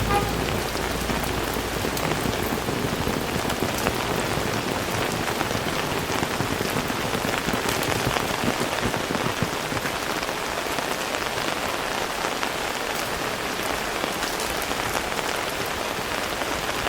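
Heavy rain falling steadily, a dense even hiss of countless drops striking surfaces.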